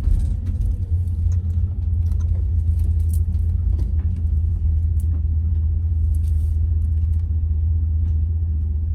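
Car on the move: a steady low road and engine rumble, with a few faint light clicks scattered through it.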